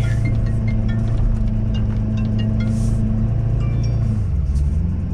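Ford Super Duty's 6.7-litre Power Stroke diesel engine running steadily, its note changing about four seconds in. A few short high pings sound over it.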